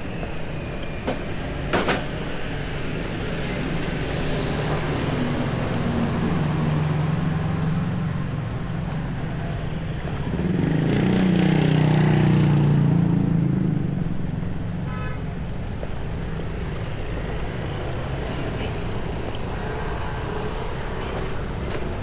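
City street traffic: motor vehicles running past in a steady rumble, with one louder vehicle passing close about ten seconds in.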